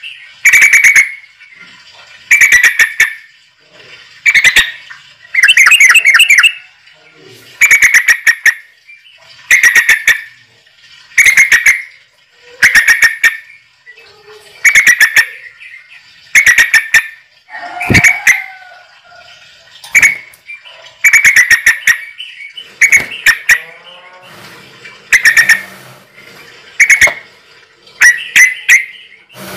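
A bird giving short, harsh, rattling calls over and over, about one every one and a half to two seconds.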